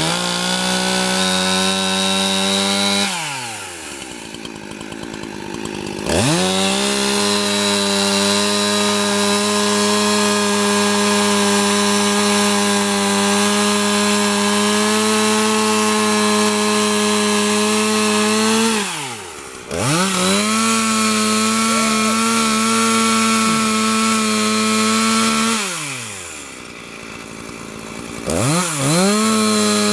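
Two-stroke chainsaw held at high revs, dropping back toward idle three times and revving straight up again each time.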